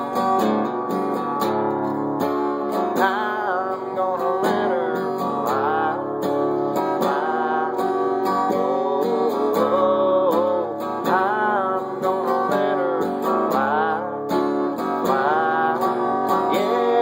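Acoustic guitar strumming in an instrumental break of a song, with a melody line that bends and wavers over the chords.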